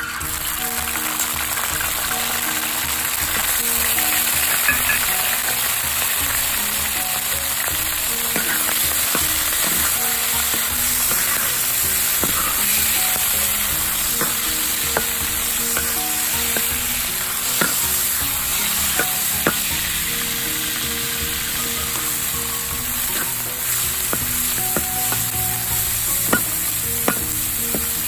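Prawns dropped into hot oil in a frying pan, setting off a loud, steady sizzle that starts suddenly, with the metal spatula scraping and clicking against the pan as they are stirred.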